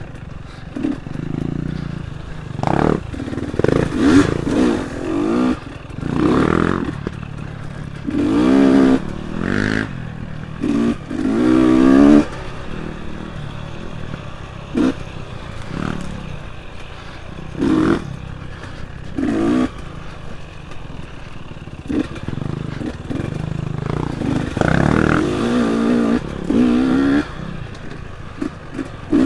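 Dirt bike engine revving in short bursts, its pitch rising and falling over and over as the throttle is worked on and off along a trail.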